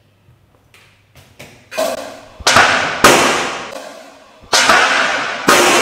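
A few faint taps, then about five loud, sharp smacks a second or so apart, each ringing out and fading over about a second.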